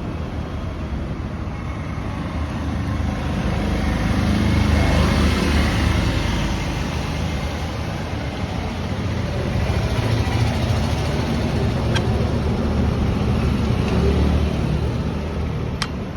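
A motor vehicle engine running with a steady low rumble, growing louder and then easing off twice.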